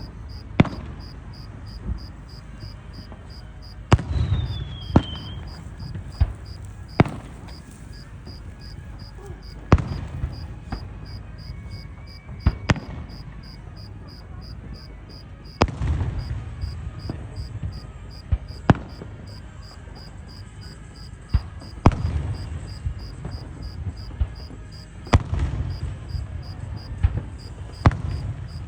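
Fireworks going off: sharp booms every couple of seconds, each trailed by a low rumbling echo, with one short falling whistle about four seconds in. Crickets chirp steadily in a fast, even pulse throughout.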